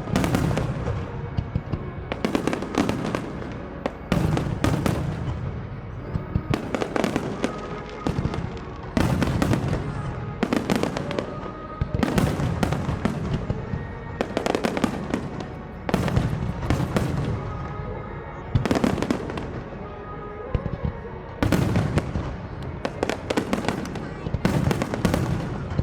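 Aerial fireworks display going off in rapid volleys: shells bursting with deep booms and crackling, a fresh cluster of bursts every one to two seconds.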